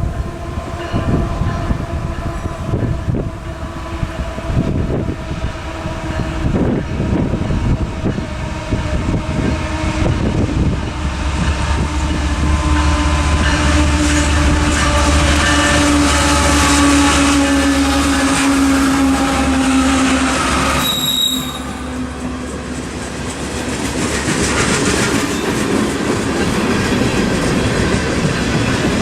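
A Canadian Pacific train passing close by, its wheels clacking over the rail joints. About ten seconds in, a heavy low rumble of locomotive engines builds, then drops off suddenly about two-thirds of the way through.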